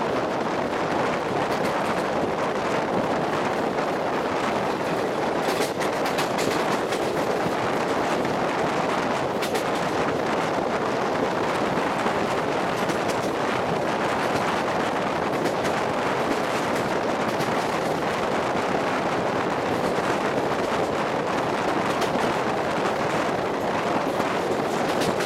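Passenger train coach running at speed: a steady rush of wheels on rail and wind, broken by frequent sharp clicks and clatter.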